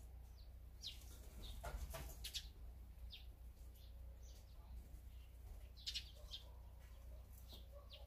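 Small wild birds giving short, high chirps on and off, with a few sharper clicks about two seconds in and again near six seconds.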